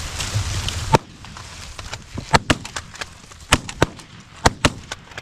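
A volley of shotgun blasts from several goose hunters firing together, about seven shots over four seconds, some in quick pairs. The noise of the goose flock fills the first second and stops at the first shot.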